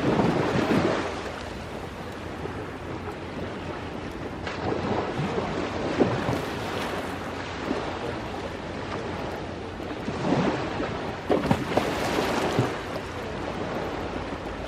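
Sea waves washing in and drawing back in surges every few seconds, with a few sharp pops from a crackling campfire.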